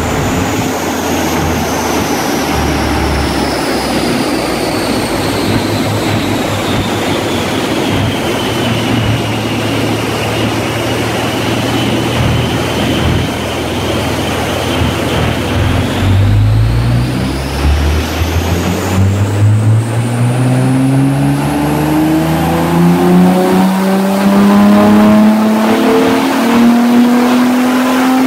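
Audi S4's twin-turbo V6, built to 3.0 litres with TTE780 turbochargers, running on a chassis dyno: it holds steady low revs for a while under a high whine that slowly falls, then from about 16 seconds in the revs climb steadily through a gear, the whine rising with them and the engine louder over the last few seconds.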